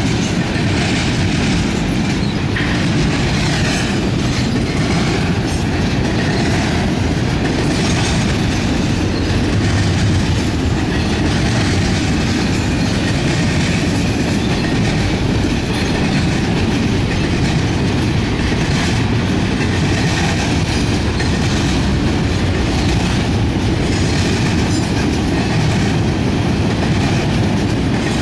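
Intermodal freight train's flatcars rolling past, their steel wheels running steadily and loudly on the rails with a constant clatter.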